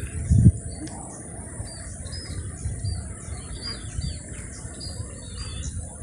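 Small birds chirping over and over in short, high notes, over a steady high-pitched hum. A dull low thump about half a second in, with low rumbling from the handheld camera moving through the foliage.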